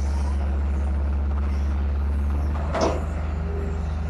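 Hydraulic excavator's diesel engine running at a steady, deep drone, with one short sharp sound about three seconds in.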